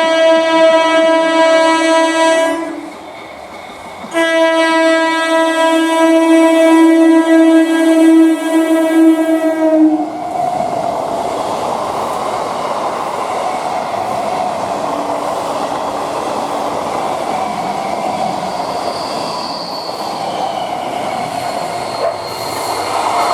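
Electric local train sounding its horn in two long blasts, the second starting about four seconds in. The horn then gives way to the steady rumble and clatter of the train running on the rails.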